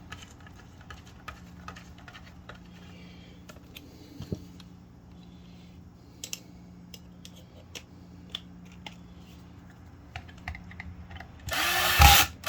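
Light clicks and taps of plastic parts and screws being handled as the septic aerator pump's top cover is fitted, then a power drill runs briefly near the end, driving in a cover screw.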